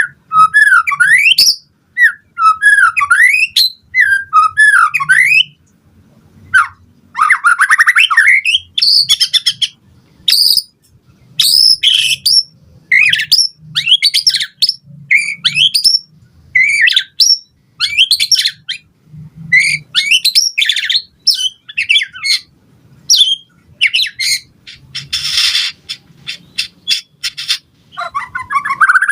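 White-rumped shama singing a varied song: phrases of rising and falling whistles and fast trills, broken by short pauses, with a harsh rasping note about 25 seconds in.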